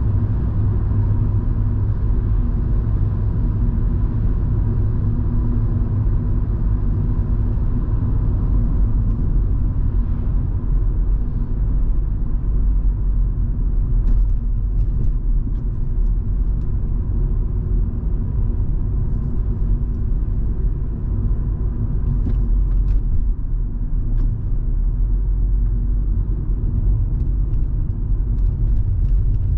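Cabin noise of a Volvo V70 2.5T on the move. The turbocharged five-cylinder engine runs steadily under a low rumble of tyres and road, with a few faint clicks around the middle and later.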